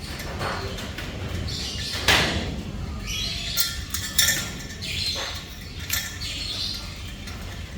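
Black-capped lory giving harsh squawks and chattering calls, mixed with sharp clicks; the loudest call comes about two seconds in.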